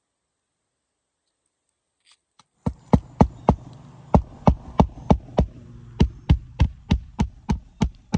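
Silence for about two and a half seconds, then a hammer striking roofing nails to fasten a replacement shingle: about seventeen sharp blows at roughly three a second, in three runs with short pauses between.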